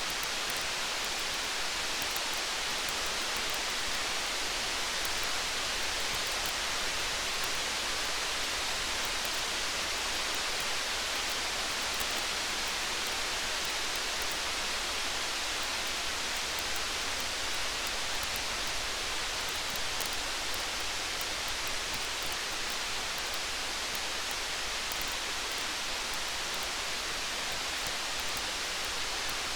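Steady rain hiss mixed with the faint, scattered crackle of a campfire: many small quick ticks over an even wash of rain.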